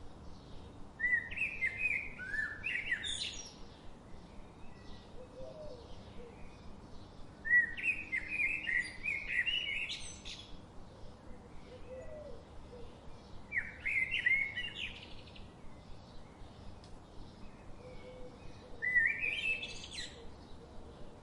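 A songbird singing four short phrases, each a run of quick notes ending in a rising flourish, repeated about every five to six seconds, with fainter chirping from other birds behind.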